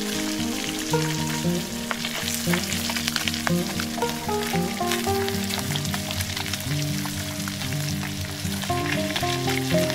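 Fish sizzling and bubbling as it cooks in oil in a clay pot, with a steady crackle of small pops. A background melody of changing notes runs along with it.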